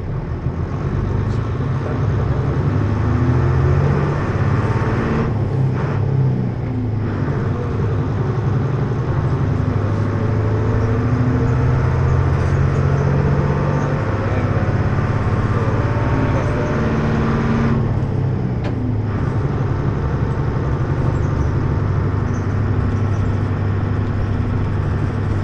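Hino U-HT2MLAA bus's diesel engine heard from inside the bus while it drives, the engine note rising and falling as it pulls, and briefly falling away twice, about six and eighteen seconds in. The uploader says this bus has taken on abnormal running noises like those of a worn-out sister bus near the end of its life.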